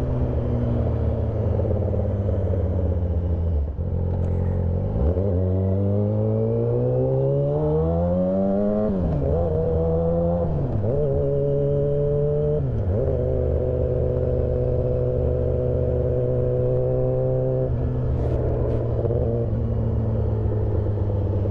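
2008 Yamaha R6 inline-four running through a full stainless exhaust system and SC Project end can, heard from the bike on the move. The pitch climbs as it accelerates, drops sharply twice as it shifts up, holds steady at cruise, then eases off near the end.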